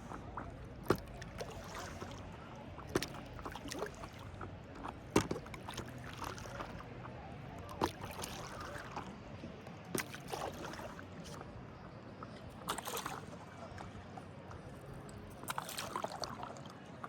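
Paddling on lake water: splashes and lapping water, with a sharp knock about every two seconds, as of a paddle striking a board or hull, and faint voices.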